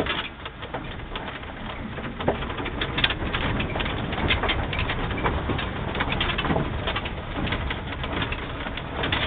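Alke ATX 420E electric truck driving off-road: a steady noise of tyres on rough ground with frequent small knocks and rattles, growing a little louder about two seconds in.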